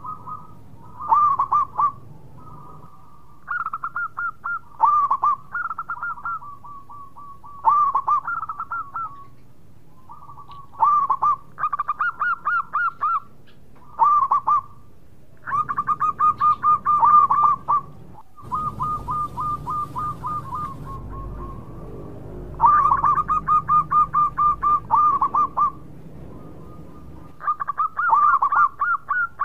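Zebra dove (perkutut) cooing: series of quick, staccato coo notes, repeated phrase after phrase with short pauses between.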